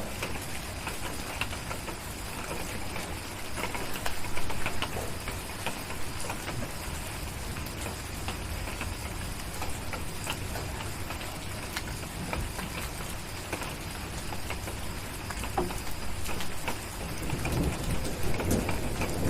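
Steady rain with scattered sharp crackles from a fireplace. A low rumble of thunder builds near the end.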